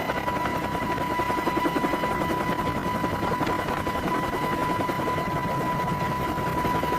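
Helicopter in flight: a steady, rapid rotor chop under a constant high whine.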